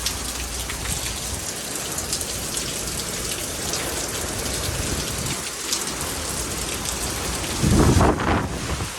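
Hurricane rain and wind making a steady, loud hiss, with a louder low rumble for about half a second near the end.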